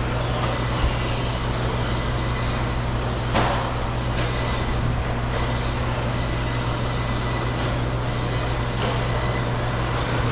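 Electric RC stadium trucks running around a dirt track, a steady mix of motor whir and tyre noise over a low constant hum, with one sharp knock about three and a half seconds in.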